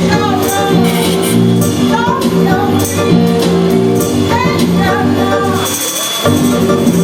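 Live band music with singing, a steady bass line and tambourine or percussion strokes.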